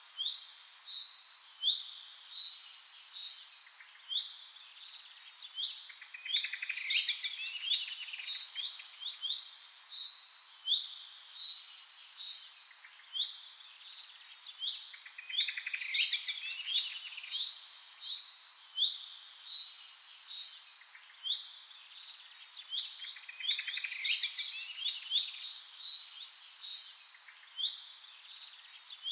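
Birds singing: a busy, unbroken run of high chirps, rapid trills and whistles that overlap one another, with similar bursts of song coming back every several seconds.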